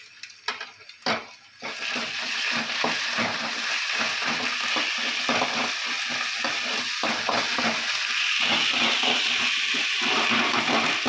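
Chopped onions and ginger-garlic paste sizzling in hot oil in a kadai, stirred and scraped with a perforated steel ladle, with a stream of short metal scrapes and clicks. The sizzle starts about two seconds in and grows louder near the end.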